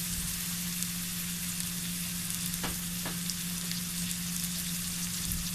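Onions and green chilies frying in hot oil in a karai, a steady sizzling hiss, over a steady low hum. Two light knocks a little past the middle, like a spatula against the pan.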